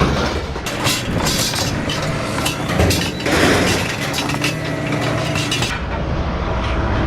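Scrap metal being thrown out onto a pile: repeated clanging and clattering impacts with metallic ringing, a dense clatter of pieces about three seconds in, over a steady low engine rumble.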